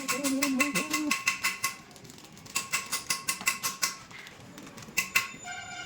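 Rapid metallic clicking, about seven clicks a second, in two runs with a short burst near the end. Each click rings briefly.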